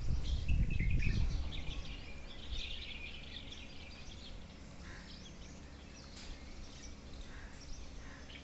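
Small birds chirping and twittering in quick, high calls throughout, over steady outdoor background noise. A low rumble on the microphone is loudest in the first second or so, then dies away.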